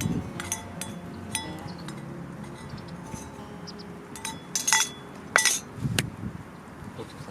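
Hard objects clinking together: scattered light clinks, then a cluster of sharper, ringing clinks about four and a half to five and a half seconds in, followed by a dull knock about six seconds in.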